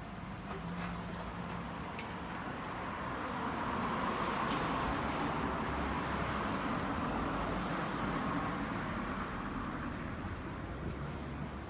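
A vehicle passing by, its rushing noise building to a peak mid-way and then fading away.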